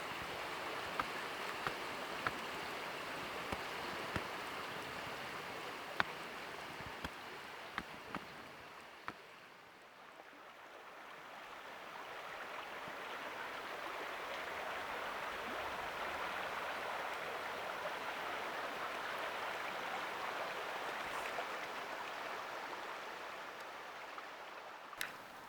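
Steady rush of running water, with scattered sharp ticks over the first several seconds. It dips about ten seconds in, swells back up and fades near the end.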